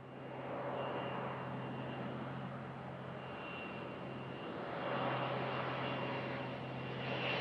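Business jet engines running: a steady broad rush with a thin high whine, swelling slightly about five seconds in.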